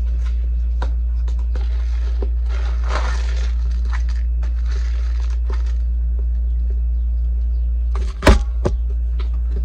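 A steady low hum throughout, with scattered small clicks and brief rustles, and one loud sharp knock about eight seconds in.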